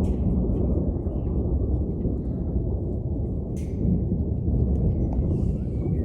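Continuous rolling thunder, a deep rumble that never breaks, with a single sharp click about three and a half seconds in.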